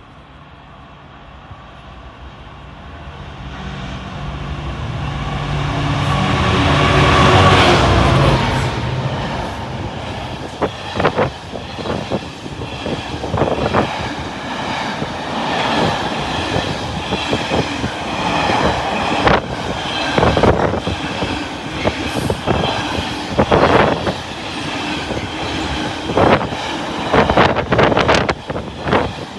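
Freight train passing: the diesel locomotive's engine grows steadily louder, peaks about seven seconds in and drops in pitch as it goes by. A long run of wagons follows, rattling with irregular clicks and clanks from the wheels on the rails.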